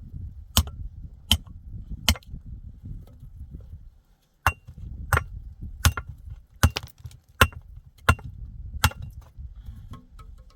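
Regular hard strikes of a metal tool, about one every three-quarters of a second, each with a short ringing clink. There is a brief break about four seconds in.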